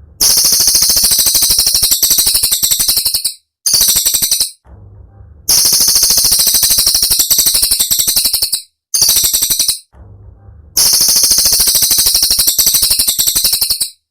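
Cililin singing: very fast, sharp, high-pitched trilling in long rapid-fire phrases of about one to three seconds, separated by short pauses.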